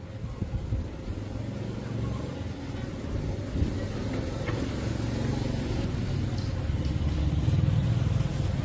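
A motor vehicle engine running with a low, steady rumble that grows gradually louder.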